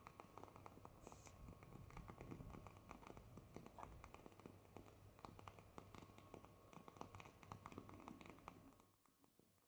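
Faint crackling of a burning candle flame: many small irregular clicks and pops over a low steady hum. The crackling stops suddenly near the end.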